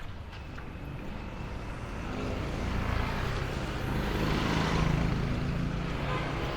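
Vehicle engine and road noise that swell to a peak about four to five seconds in and then ease off, like a vehicle passing close by.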